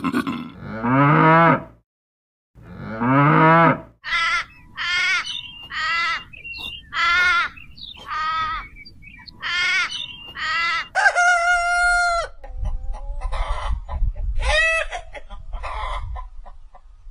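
Domestic chickens and a rooster calling. Two longer drawn-out calls open it, then a run of short, pitched clucking calls, a held crowing note about 11 seconds in, and more clucks after it.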